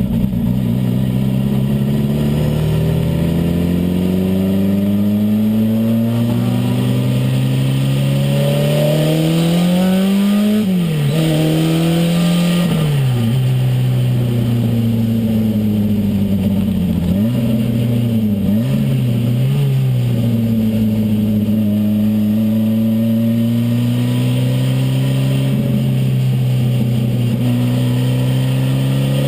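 Renault 5 Turbo's turbocharged four-cylinder engine heard from inside the cabin, pulling through the gears. Its pitch climbs steadily and drops sharply at each gear change, with several quick drops and dips around the middle.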